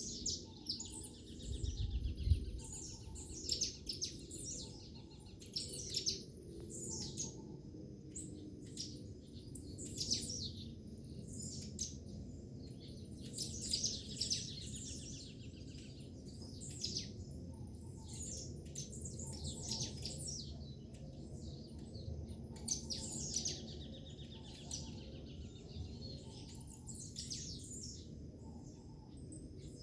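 Songbirds chirping and singing, with short high calls and trills every second or two over a steady low background rumble, and a brief low thump about two seconds in.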